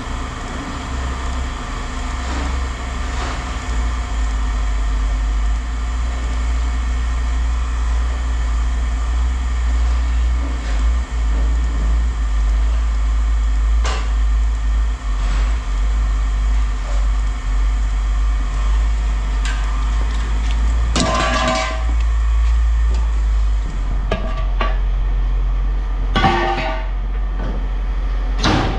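Steady low machine rumble with scattered metallic clanks and knocks of scrap metal being handled, and a louder clatter of metal about three-quarters of the way through.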